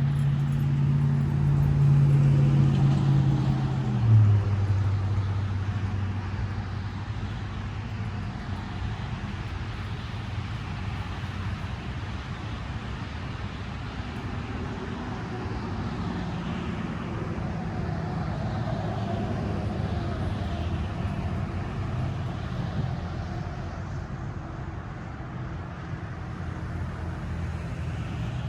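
Motor vehicle engine running with a steady hum that drops in pitch about four seconds in, over road traffic noise.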